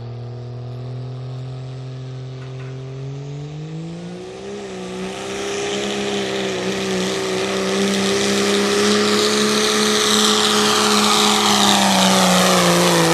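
Turbo-diesel pickup truck engine making a pull: it runs low for the first few seconds, revs up about four seconds in and holds high and steady under load while a high hiss builds, then starts to drop off near the end.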